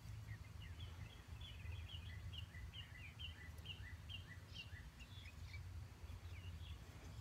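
A songbird singing faintly, a quick run of short repeated chirps, two or three a second, that thins out about five seconds in, over a low steady rumble.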